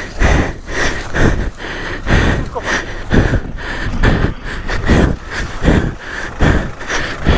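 Heavy, rhythmic panting close to the microphone, about one and a half breaths a second, as from hard physical exertion.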